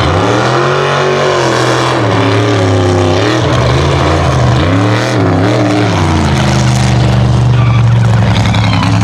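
Mega truck engine running hard, its pitch rising and falling several times as the throttle is worked.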